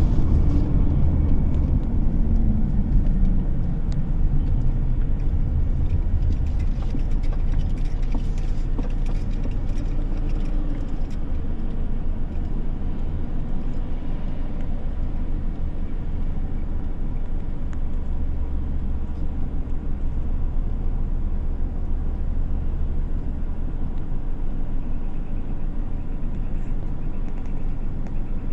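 Car driving on a road: steady engine and tyre rumble, with the engine note falling over the first few seconds as the car eases off.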